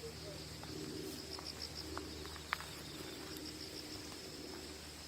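Insects chirping in short trains of rapid high pulses that repeat every second or so, over a steady low hum. A single sharp click sounds about two and a half seconds in.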